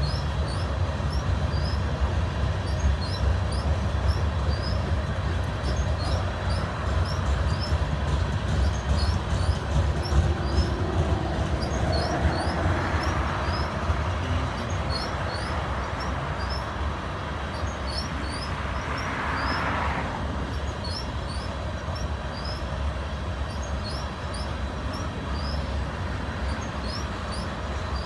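CN freight train rolling past with a steady low rumble of wheels on rail. A brighter hiss of wheel noise builds about halfway through and cuts off suddenly a few seconds later.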